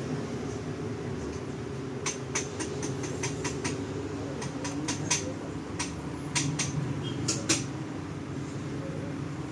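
An engine running steadily, with a string of sharp, irregular clicks or ticks over the middle few seconds.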